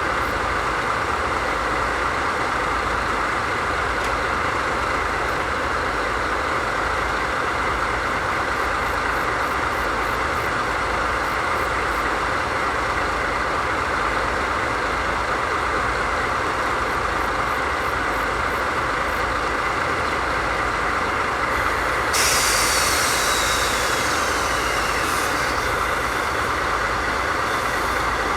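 DD51 diesel locomotive's twin V12 diesel engines idling steadily. About three-quarters of the way through, a sudden burst of air hiss with a falling whistle starts, lasts about three seconds and then eases off.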